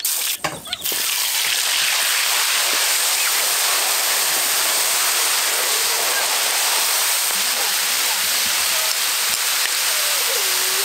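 Crayfish frying in hot oil in a large iron wok: a loud, steady sizzle that sets in about a second in, after a moment of a metal spatula clattering against the wok.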